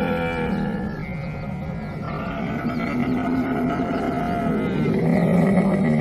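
Camel vocalizing in one long, low, pitched call that eases off about a second in and grows louder again near the end.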